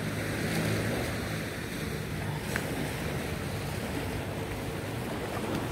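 Ocean surf washing in steadily, with wind buffeting the microphone. There is a single faint click about halfway through.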